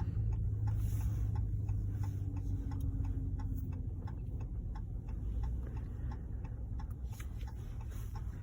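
Car turn signal clicking steadily, about two to three clicks a second, inside the cabin over the low rumble of the engine and road.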